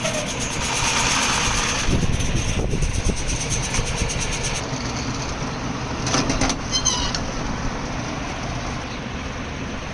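Engine-driven rice husking and milling machine running: a steady mechanical noise with irregular rattling.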